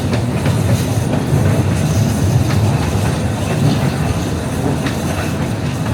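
Metre-gauge train running on the rails: a steady low rumble with a few faint clicks from the wheels.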